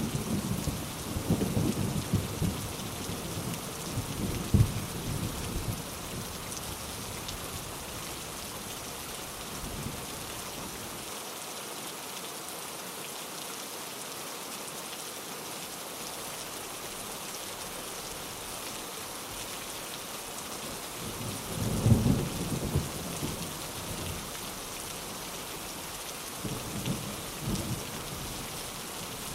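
Steady heavy rain, with thunder rumbling low at the start and dying away over the first five seconds or so, then a sharper roll of thunder about two-thirds of the way in and a fainter one near the end.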